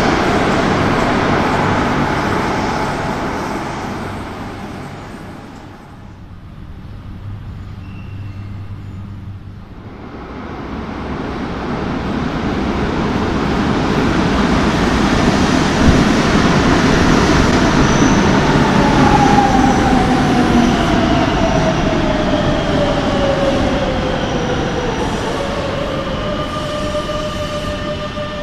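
Madrid Metro Serie 9000 train noise: a train's running noise fades away over the first few seconds. After a quieter spell a train runs in, louder and louder, with one knock, and its motor whine falls steadily in pitch as it brakes to a stop, leaving a steady hum.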